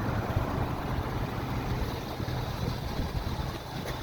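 Ford F-350 dually pickup's engine running steadily at low speed, a low even hum.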